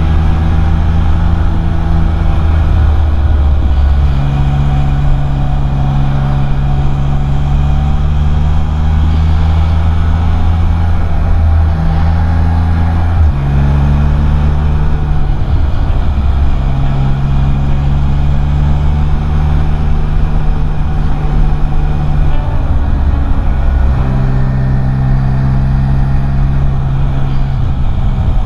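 Can-Am Spyder three-wheeler's engine running steadily as it is ridden along the road, its pitch holding for a few seconds at a time and then shifting.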